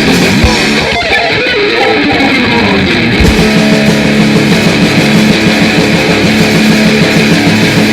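Live grindnoise band playing: distorted electric guitar with drums, loud and dense, settling into a held, droning chord for the second half.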